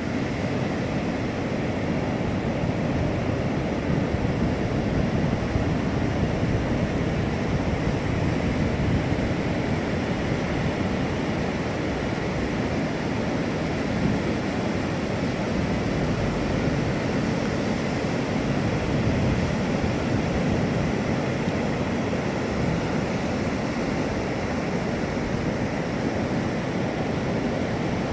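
Steady rush of Pacific Ocean surf breaking on the shore, with wind rumbling on the microphone.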